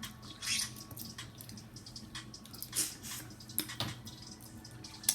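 Wet eating sounds from snow crab legs in butter sauce: smacking and chewing, broken by a few short sharp crackles, the sharpest one near the end.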